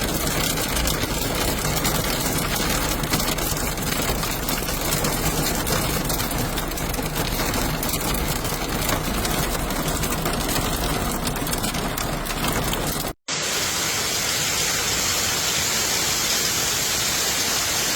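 Storm noise: dense pattering of heavy precipitation striking surfaces over a steady rush. About 13 seconds in, a brief cut to silence, then a second storm recording follows with a smoother, steady hiss.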